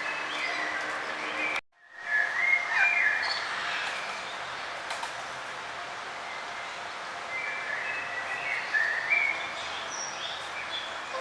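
Small songbirds chirping in short bursts of high notes over a steady background hiss of outdoor ambience. The sound cuts out completely for a moment about two seconds in, then the chirping resumes.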